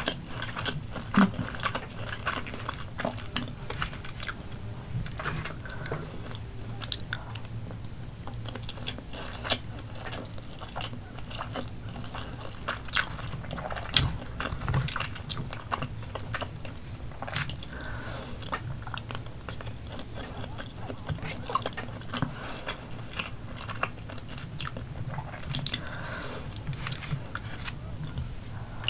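Close-miked chewing and mouth sounds of someone eating spoonfuls of rice, with scattered small clicks and scrapes as a metal spoon scoops from a paper takeout box.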